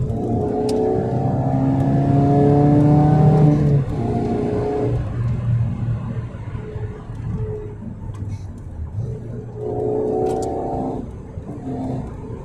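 A 1999 Fiat Coupé's 1.8 16-valve four-cylinder engine pulls under load, its pitch rising slowly for about four seconds before easing off sharply. It runs lighter after that, then pulls again briefly about ten seconds in and drops back a second later.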